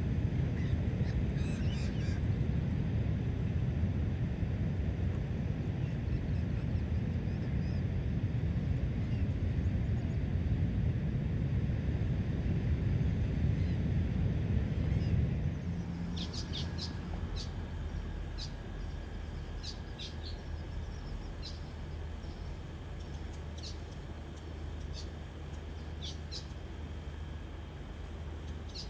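A steady low rumble for about the first half, then an abrupt change to quieter outdoor ambience with short, high bird chirps, repeating roughly every second or so.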